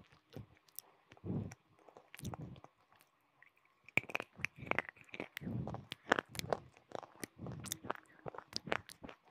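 Close-miked chewing and crunching of hard, brittle pieces held right at the mouth: sharp cracks over slower chewing, sparse at first and much denser from about four seconds in.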